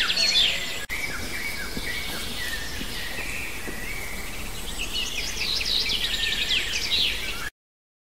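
Birds singing: quick, high trilled song phrases, one at the start and another from about five seconds in, over a steady high background. The sound cuts off abruptly near the end.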